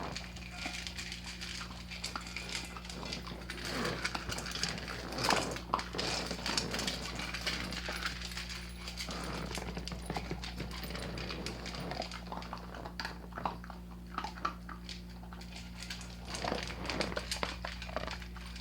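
Dog eating from a food bowl: irregular clicks and clinks.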